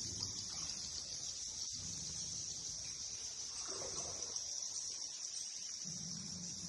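Bats in the cave chattering as a steady high-pitched chirring hiss, with a faint low rumble beneath.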